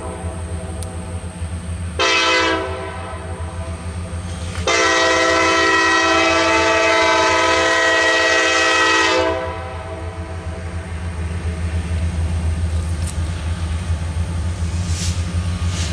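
Freight train's lead diesel locomotive, a Kansas City Southern unit, sounding its horn as it passes: a short blast about two seconds in, then a long blast of about four and a half seconds, the short-then-long ending of a grade-crossing signal. The diesel engines run throughout, and in the second half the rumble of the passing cars swells and pulses.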